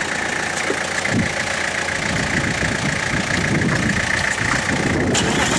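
Cold diesel engine turning over on the starter and beginning to fire. Its fuel filter has just been primed and its injectors cracked to bleed the air out.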